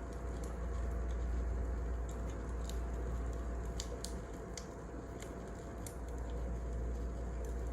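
Wood fire crackling in a fireplace: sparse, irregular sharp pops and snaps over a steady low rumble of the burning fire.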